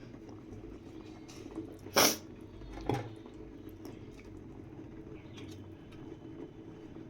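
A steady low hum with two short, sharp noises, the first the louder, about two and three seconds in.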